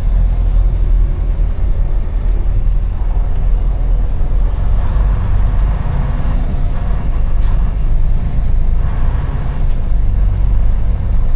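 Semi truck's diesel engine and road noise heard inside the cab while driving: a steady low rumble.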